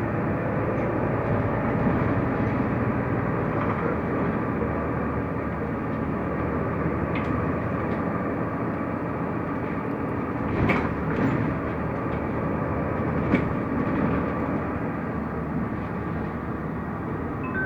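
Steady running noise of a Mercedes-Benz Türk O345 Conecto LF city bus under way, heard from inside the cabin, with a few sharp knocks from the body about seven, eleven and thirteen seconds in.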